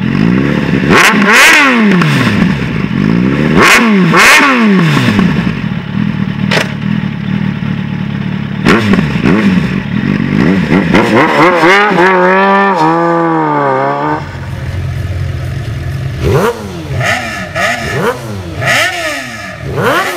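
Motorcycle engines with aftermarket exhausts being revved while standing: repeated sharp throttle blips that rise and fall in pitch, then a held high-rev stretch. About two-thirds of the way through, the sound switches abruptly to a different bike idling between further rev blips.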